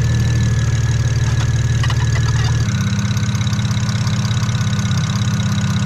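Single-turbo BMW N54 inline-six idling steadily, with a thin whine above the idle. About two and a half seconds in, the idle note changes: the deepest rumble drops out and the whine falls slightly in pitch.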